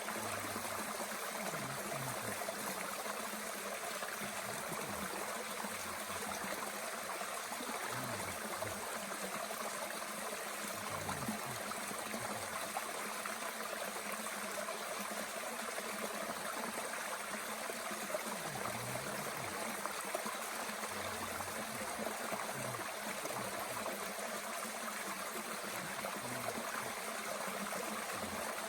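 Mountain stream running steadily with a low gurgle, and a few faint crackles from a small wood fire in a Bush Box twig stove.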